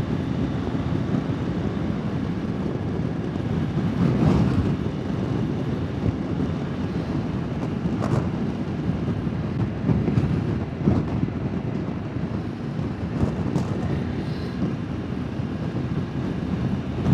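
Motorbike riding noise: steady wind rush mixed with engine and road noise, picked up by a helmet-mounted wireless lapel mic with its noise cancellation set to low.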